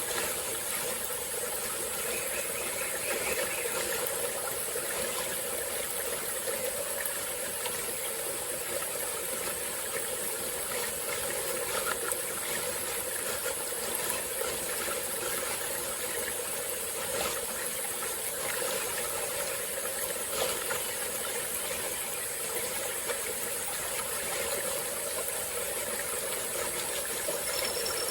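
Small tropical-forest stream flowing steadily, an even rushing of water with a constant high hiss and a few faint clicks.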